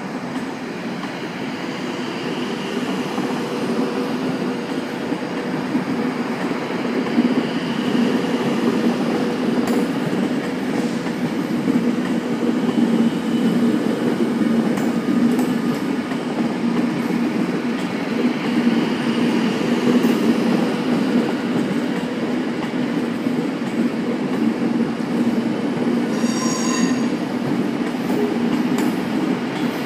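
A train moving along a station platform: a steady low running rumble that builds over the first several seconds. Faint wheel squeal comes and goes, and a brief higher squeal sounds near the end.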